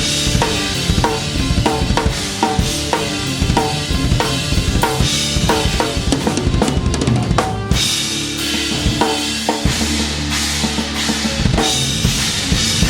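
Rock band playing an instrumental passage with the drum kit loud and close: a steady beat of kick and snare with cymbals, a quick run of hits about seven seconds in, then held low bass notes under the drums.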